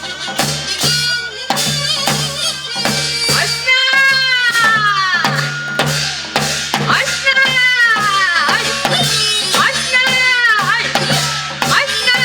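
Korean traditional folk music. Drums strike steadily under a wind instrument melody whose notes bend up and fall away in long swoops.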